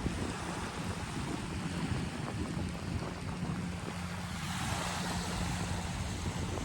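Wind rushing over the microphone with a steady wash of water-like noise and a constant low hum underneath.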